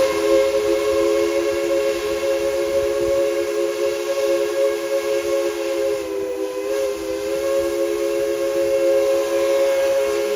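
Steam locomotive whistle, Tweetsie Railroad's number 190, sounding one long sustained blast. It is a chord of several notes held steady, with a slight dip in pitch about six seconds in.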